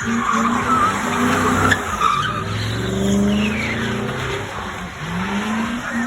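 Car engine revving up twice, with tires squealing early on.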